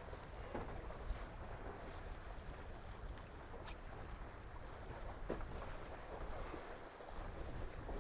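Water rushing along the hulls and wind buffeting the microphone aboard a Tornado racing catamaran under sail, a steady wash with a few light knocks.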